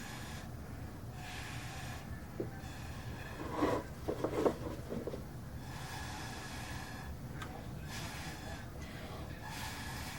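Breath blown through a drinking straw onto wet resin, a series of airy puffs a few seconds apart, with a few short louder sounds about four seconds in.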